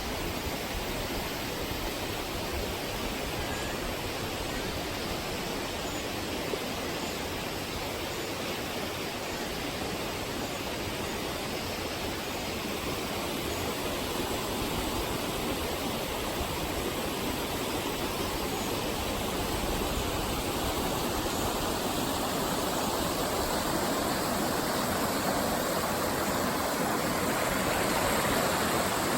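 Waterfall: the steady rush of falling water, growing a little louder near the end.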